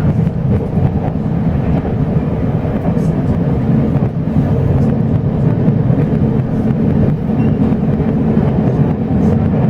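Steady running rumble of a locomotive-hauled Chu-Kuang express passenger train in motion, heard from inside the carriage: wheels running on the rails and the carriage rumbling.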